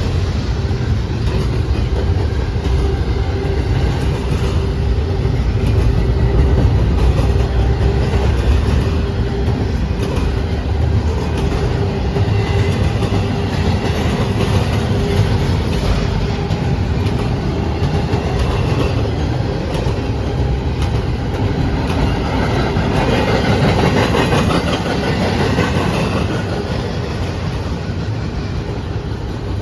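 Long CSX intermodal freight train rolling steadily past at track speed, its wheels running on the rails.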